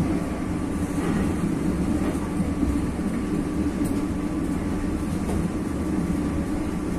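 Passenger train running: a steady low rumble with a faint steady whine above it.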